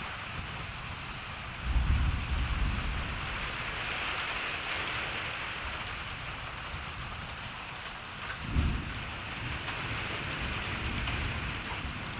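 Steady rain hissing, with two low rolls of thunder: one about two seconds in that rumbles on for a second or more, and a shorter one about eight and a half seconds in.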